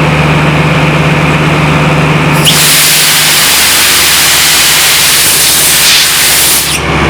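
Diesel engine of a vacuum excavation truck running steadily. About two and a half seconds in, a loud rushing hiss starts suddenly over it. The hiss eases off shortly before the end.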